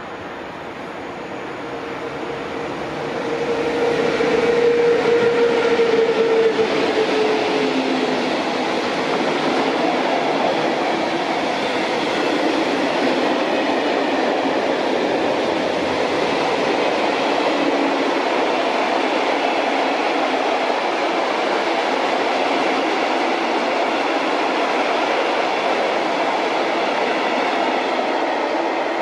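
Class 181 electric locomotive hauling a freight train of tank wagons past at speed. The sound grows over the first few seconds as it approaches, with a humming tone that falls slightly in pitch as the locomotive goes by, then settles into the steady rolling noise of the wagons passing.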